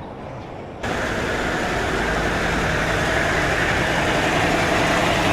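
A heavy truck's diesel engine running close by, coming in suddenly about a second in and getting slightly louder.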